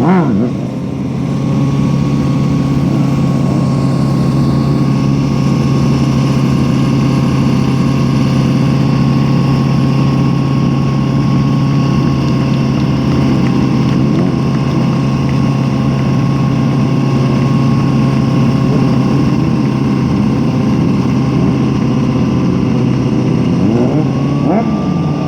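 An engine running steadily at one constant speed, with a faint steady whine above its drone. Near the end, a few short rising and falling engine notes sound over it.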